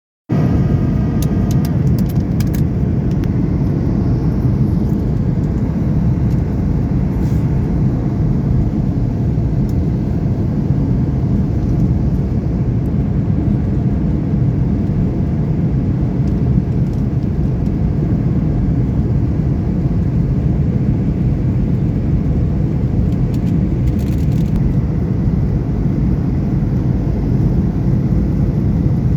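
Steady low rumble of an airliner heard from inside the cabin: engine and airflow noise during the landing approach, with a few faint clicks.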